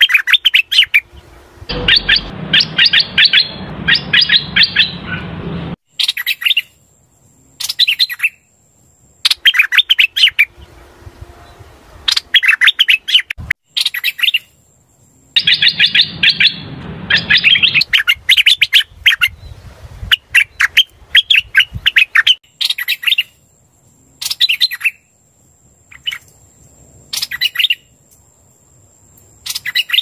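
Hoành hoạch bird song played as a decoy lure for trapping: repeated phrases of rapid chattering notes, each one to four seconds long, separated by short pauses.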